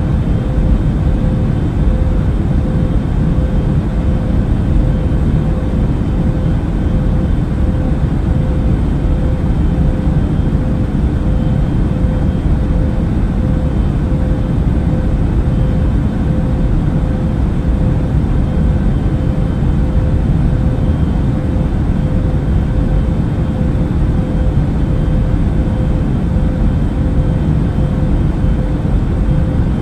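Airplane cabin noise in flight: a steady, low rush of engine and airflow noise with a constant hum on top, unchanging throughout.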